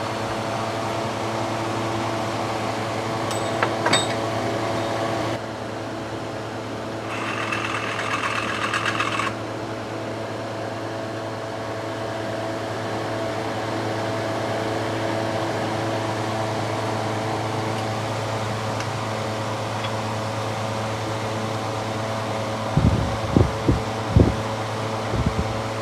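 A steady mechanical hum made of several even tones, with a few clicks, a short buzzing stretch about a third of the way in, and low irregular thumps near the end.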